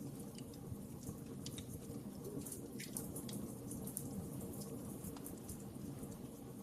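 Wood fire crackling in a fireplace: a steady low rumble of flames with scattered sharp pops and snaps, several a second.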